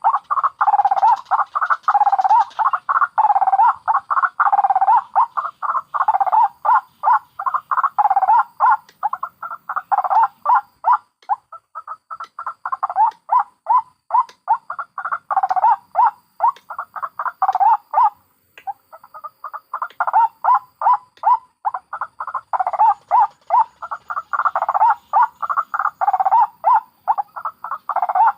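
White-breasted waterhens calling continuously in fast, repeated cackling notes, with a short break about two-thirds of the way through.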